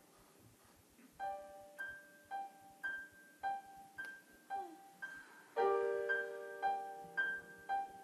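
Piano playing a song's introduction: after a faint first second, single notes repeat about twice a second, with a fuller chord struck about halfway through.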